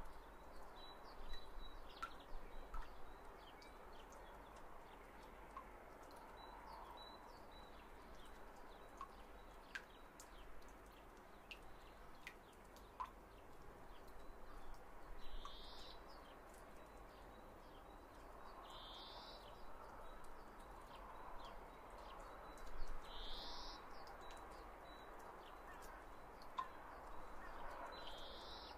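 Faint bird calls: a short rising chirp repeated four times, roughly every four seconds, in the second half, over scattered faint ticks.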